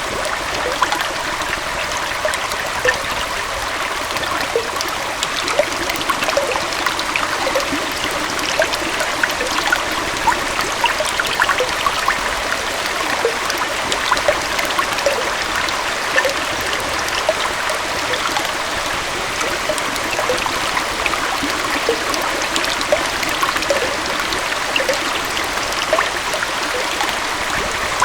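Gentle waterfall and stream flowing steadily: an even rush of water dotted with many small splashes and trickling drips.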